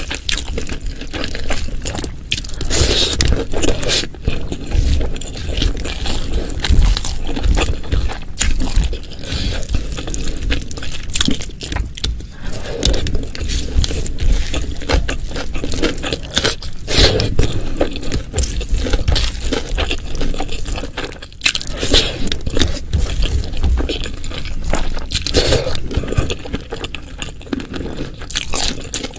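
Close-miked eating: wet chewing and crunching of food, a dense run of small clicks and crackles.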